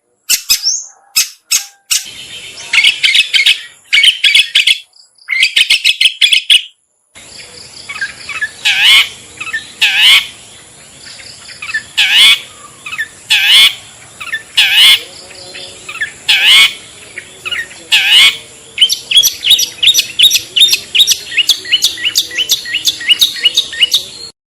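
Bird-lure recording of long-tailed shrike (cendet) calls. Short harsh calls come first, then clear downward-sweeping calls repeated about every second and a half, then a fast run of short calls near the end, over a steady high-pitched tone. The recording cuts off abruptly.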